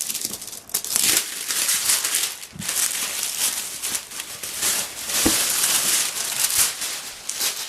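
Packaging being handled and pulled about: continuous crinkling and rustling, with a couple of soft knocks.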